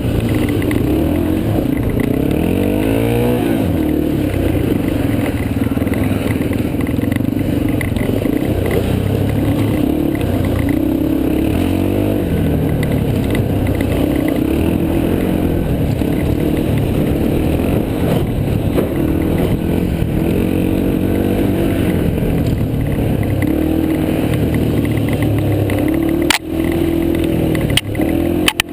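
Yamaha TT-R230 dirt bike's single-cylinder four-stroke engine being ridden, its pitch rising and falling with the throttle. Two sharp knocks come near the end.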